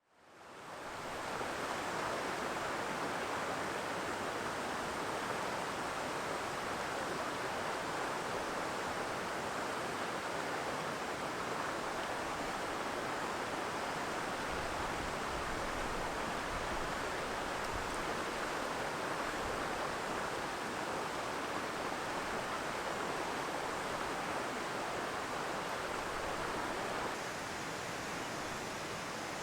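Steady rushing of a mountain stream. It fades in at the start and drops a little near the end.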